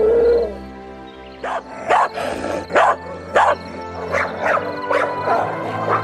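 An animal giving short, sharp barks or yelps, one or two a second, over background music.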